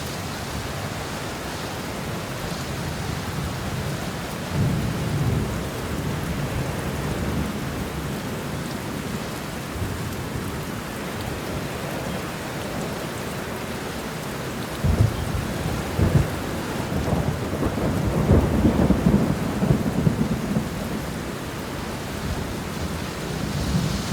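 Steady heavy rain hissing, with thunder rumbling: a short roll about four seconds in, then a longer, louder rumble with sharp cracks from about fifteen seconds in that fades out after about six seconds.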